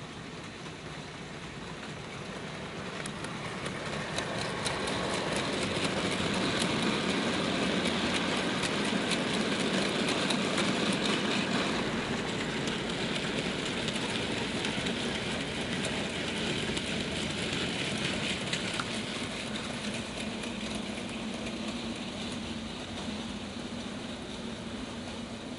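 A train running along the track, its wheels clicking rapidly over the rail joints. The running noise swells to a peak about halfway through and then slowly dies away as it passes.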